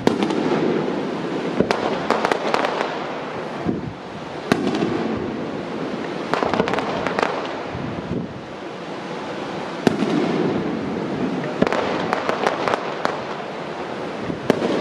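Aerial firework shells bursting: sharp bangs every few seconds, each trailed by a rolling rumble, with spells of rapid crackling between them.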